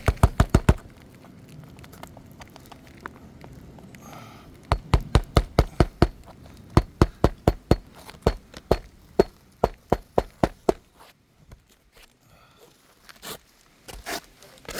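Hammer driving nails into asphalt roof shingles. There is a quick run of blows at the start, then a steady series of strikes at about three a second for some six seconds, and a few scattered taps near the end.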